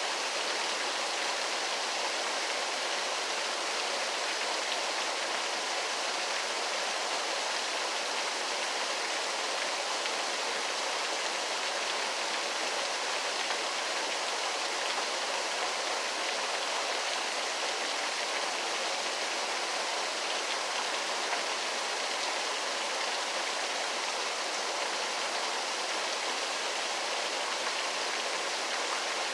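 Waterfall: falling water rushing in a steady, unbroken hiss with little deep rumble.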